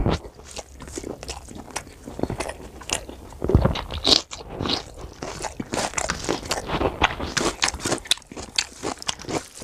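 Close-up mouth sounds of a person biting into and chewing raw cucumber slices: a run of crisp, quick crunches that grows denser in the second half.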